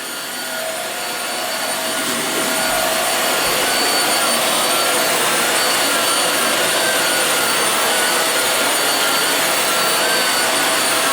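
Hoover WindTunnel Air bagless upright vacuum cleaner running on carpet: a steady rush of air with a faint whine, getting louder over the first few seconds and then holding level.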